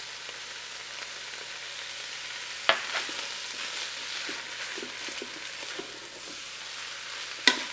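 Ground beef, onion and freshly added garlic sizzling as they sauté in an electric pressure cooker's pot, with a wooden spoon stirring and scraping through them. There are two sharp knocks, one about two and a half seconds in and one near the end.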